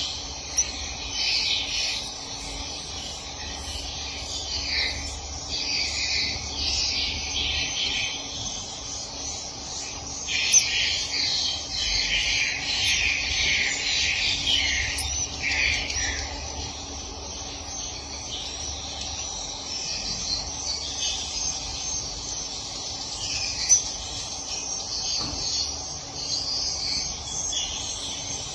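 Swiftlets twittering in dense, overlapping high chirps, busiest in the first half and thinner later, over a faint steady hum. Two sharp clicks stand out, one about ten seconds in and one near the end.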